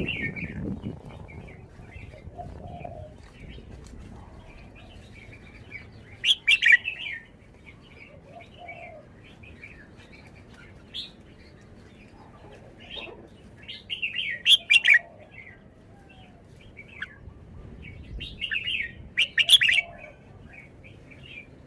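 Red-whiskered bulbul singing short, loud song phrases, three of them, about six, fourteen and nineteen seconds in, with softer chirps scattered in between.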